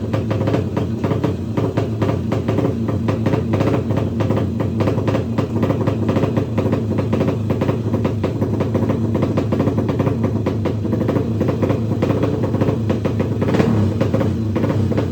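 A drag-racing motorcycle engine running with a rapid, steady pulse, mixed with music playing.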